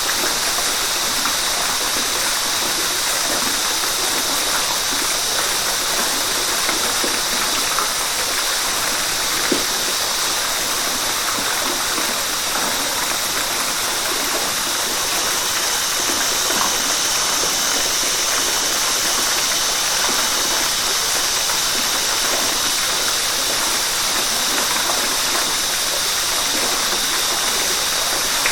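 River water rushing steadily, an even, unbroken hiss of flowing water that holds constant throughout.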